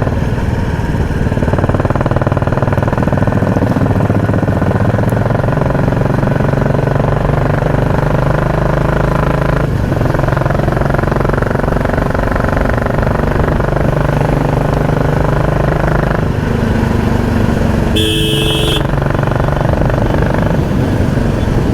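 Royal Enfield Classic 350 single-cylinder engine with a loud exhaust, running under way as the bike is ridden; its note rises and falls with the throttle and dips briefly about ten seconds in. A vehicle horn sounds briefly near the end.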